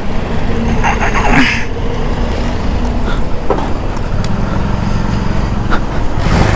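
Hero Splendor Plus's 100cc single-cylinder four-stroke engine running as the motorcycle rides away, with road noise. A brief, brighter sound about a second in stands out over the engine.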